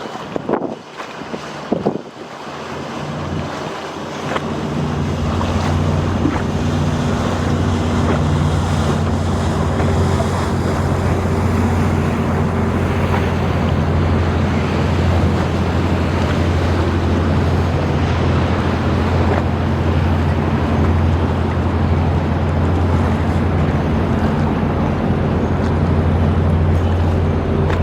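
Boat engine running with a steady low hum, growing louder over the first few seconds and then holding, over rushing river water and wind buffeting the microphone. A few sharp knocks sound in the first two seconds.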